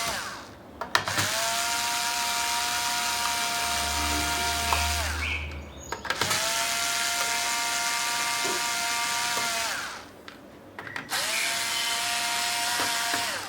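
Electric screwdriver motor running in three spells of about four seconds each, backing out the laptop's bottom case screws. Each spell spins up quickly, holds a steady whine and winds down.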